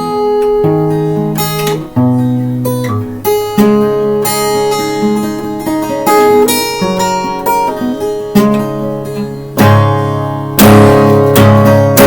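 Acoustic guitar music: strummed chords that change every second or so.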